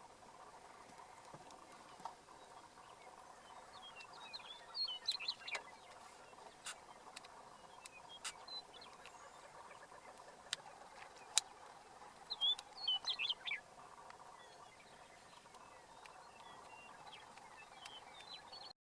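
Lesser prairie chickens calling on a lek: a steady chorus of low bubbling gobbles, with two bursts of high squeaky chirps and a few sharp single clicks. The sound cuts off suddenly near the end.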